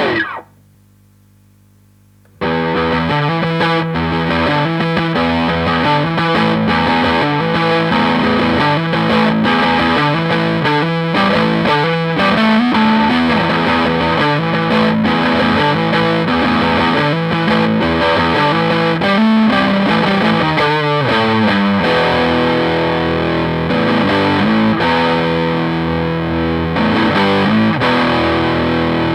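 Electric guitar through a Marshall JTM60 valve amplifier on a distorted setting: after a short rising slide and a pause of about two seconds, continuous overdriven riffing with changing notes and chords.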